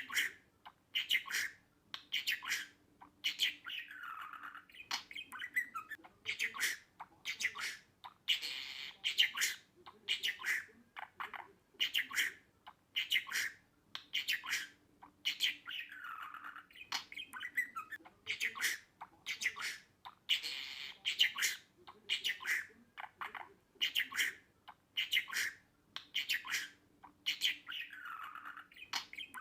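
Budgerigar chirping and chattering in quick, squawky calls, the same stretch of calls repeating about every twelve seconds.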